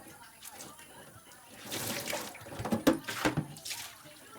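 Water running in two short bursts, with a few light knocks of items being handled in between.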